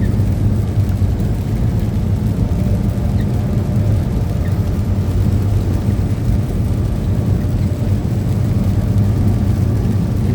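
Steady low drone of a truck's engine and tyres on the road, heard from inside the cab while driving.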